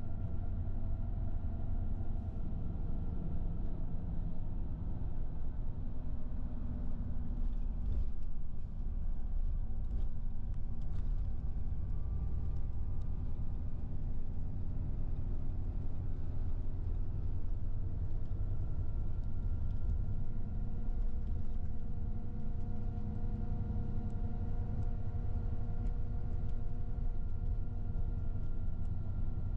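Steady engine and road rumble heard from inside a moving road vehicle, with a faint whine that drifts slowly in pitch.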